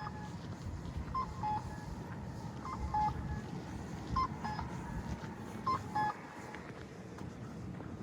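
Electronic pedestrian crossing signal sounding a two-note falling beep, high then low, repeating about every second and a half and stopping about six seconds in, over a low city hum.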